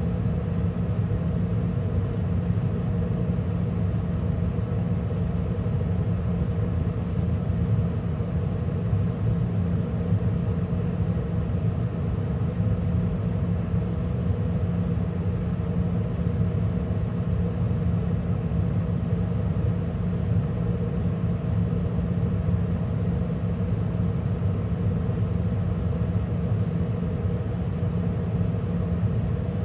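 2013 Carrier gas furnace in the middle of its heating cycle, with the burners firing and the draft inducer and circulation blower running: a steady rumble with a constant hum.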